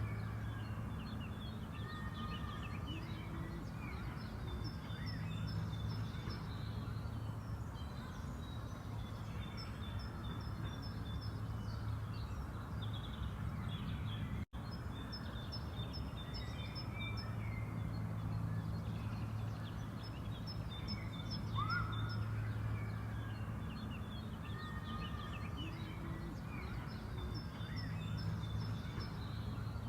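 Spring park ambience: songbirds chirping and calling in short repeated phrases over a steady low hum of background noise. The sound cuts out for an instant about halfway through.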